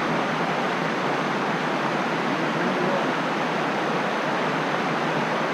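Steady rushing of falling water from a nearby small waterfall or creek rapids, an even, unbroken roar.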